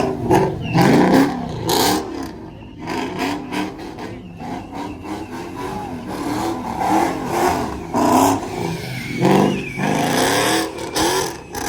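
Car engine revving hard and over and over, its pitch rising and falling in quick waves, loudest near the start and again about eight to eleven seconds in.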